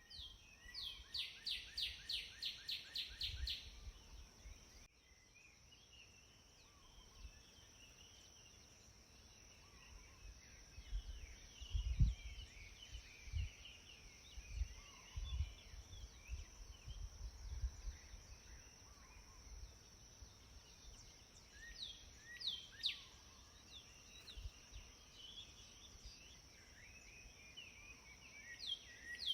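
Birds singing outdoors. A quick series of repeated down-slurred notes opens it, then scattered chirps, and a few more down-slurred notes near the end. A steady thin high-pitched tone runs underneath, with occasional low rumbles.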